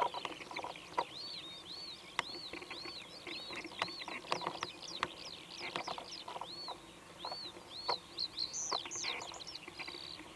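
Wild birds singing: a steady run of short, high, arching chirps repeated over and over, with sharp chip calls scattered between them.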